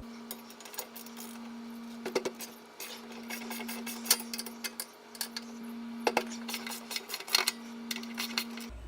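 Scattered metallic clicks and taps of hand tools on a motorcycle's exhaust muffler clamp and rear bolts as they are loosened and removed, some in quick clusters, over a steady low hum.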